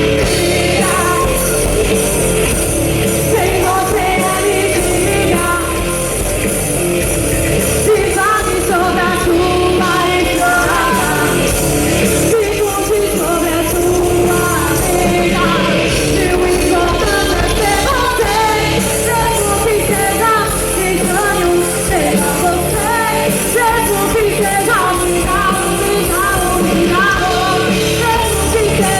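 Live rock band playing with a singer, amplified through a PA: loud, continuous rock music with sung vocals and steady drums and bass.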